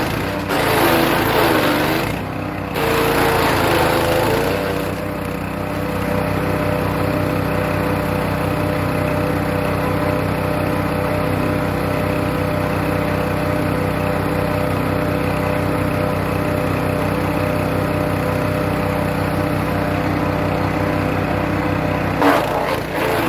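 Hecht 6208 wood chipper's small petrol engine running, chipping birch branches in the first few seconds with its pitch dipping under load, then running steadily at speed. A short burst of chipping comes again near the end.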